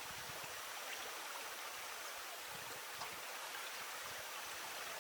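Steady hiss of flowing river water, with a few faint ticks.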